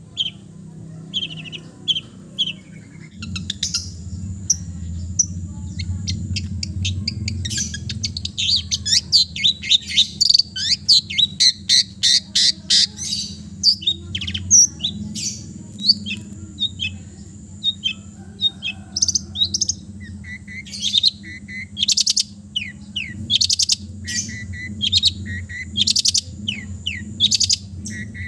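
Long-tailed shrike (cendet) singing a fast, chattering song of quick chirps and sweeping notes, packed with calls copied from other birds. The notes come thickest in a rapid run through the middle. A steady low hum runs underneath.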